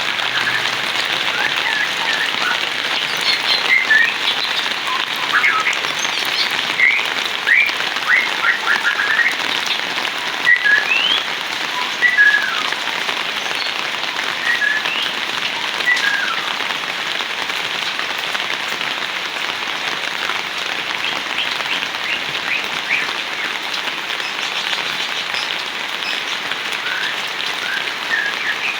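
Heavy rain falling steadily. A run of short, high chirping calls from a bird or frog comes through it over the first half, and a few more come near the end.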